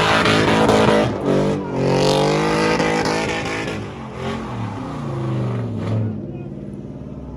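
A vehicle engine revving, its pitch climbing and falling several times, then easing to a lower steady run about six seconds in.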